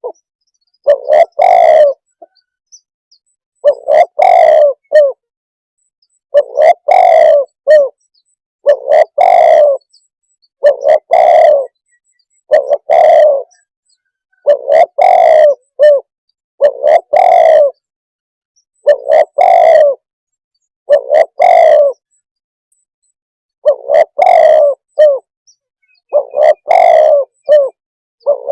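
Spotted dove calling: a short cooing phrase of a few notes, repeated about every two seconds at a very loud, distorted level.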